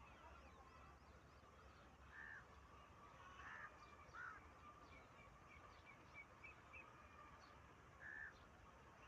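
Faint birds calling: four short, harsh calls spread through the stretch, with a quick run of small high chirps in the middle.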